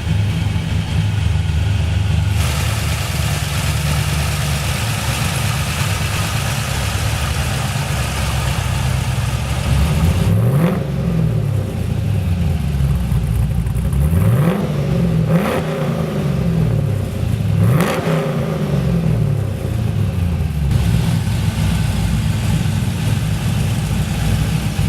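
LS V8 engine of a custom 1973 Datsun 240Z idling just after starting, then blipped through several quick revs between about ten and eighteen seconds in, pitch rising and falling with each one, before settling back to idle.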